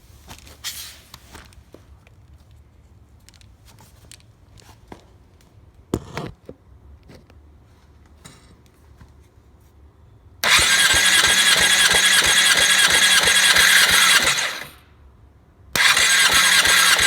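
Faint clicks and handling noises, then a 2012 Yamaha R6's inline-four is spun over on its electric starter in two runs: about four seconds, a pause of about a second, then another run that carries on to the end. The cranking has an even pulse and a high starter whine. It is a compression test on cylinder 4, and the gauge reads about 170 psi.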